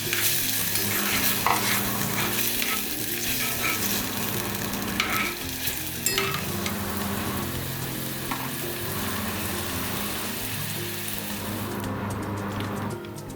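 Food sizzling in hot oil in a pan, with occasional clicks and scrapes of a cooking utensil. The sizzle drops away near the end.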